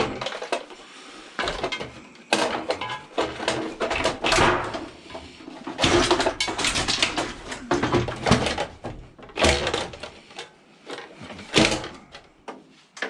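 Scrap items being handled and loaded: an irregular series of knocks, rattles and clatters, with brief pauses between them.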